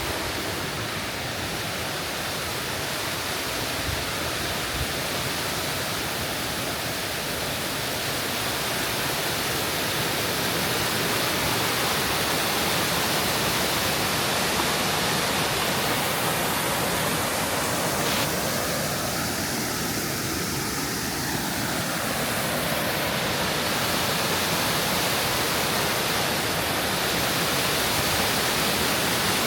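Tokuwa River's water rushing down its rocky gorge in a steady, even roar that swells slightly after about ten seconds.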